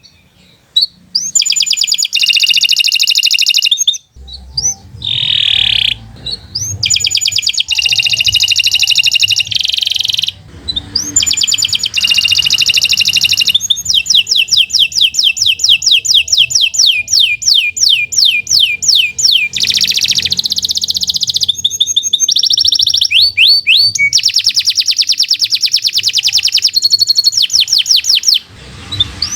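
Domestic canary singing a long, nearly unbroken song of fast trills and rolls, with a run of quick repeated sweeping notes in the middle. It starts after a short pause about a second in.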